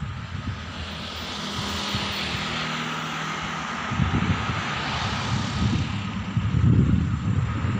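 Diesel train approaching on the main line, its engine drone and the rush of the train swelling and growing louder from about halfway through.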